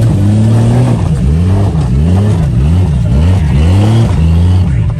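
A vehicle's engine revving in quick repeated blips, its pitch rising and falling about two to three times a second.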